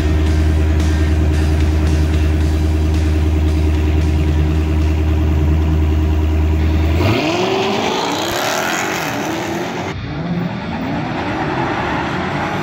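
Dodge Demon's supercharged 6.2-litre Hemi V8 running steadily and loud at the drag-strip starting line; about seven seconds in it launches and the engine note climbs in rising sweeps as the car accelerates away. Near the end a second V8 rises in pitch as it accelerates.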